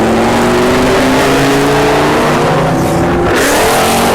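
A car engine held at high revs, its pitch climbing slowly, under a broad rushing noise that grows louder about three seconds in.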